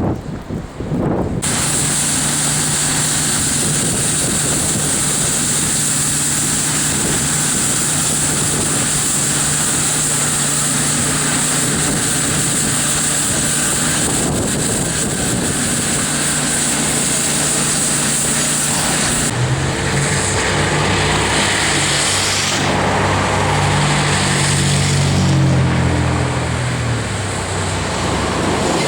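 Storm wind rushing over the microphone, with street traffic underneath. A vehicle engine hums steadily, then its pitch shifts and falls off in the second half.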